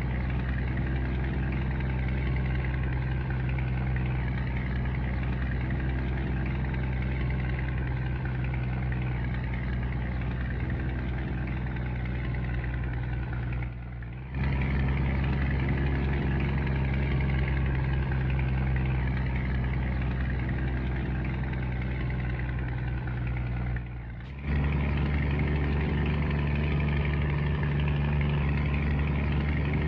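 Scania truck's diesel engine running steadily with a low hum. It cuts out briefly twice, about halfway through and again a few seconds later, and after the second break it settles at a different pitch.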